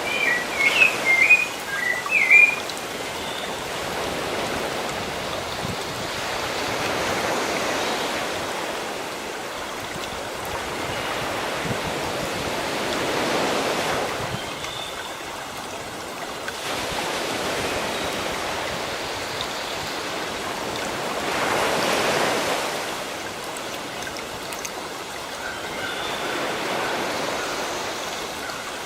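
Sea waves washing onto the shore, the surf swelling and easing back every few seconds. A bird chirps a quick run of high notes in the first couple of seconds.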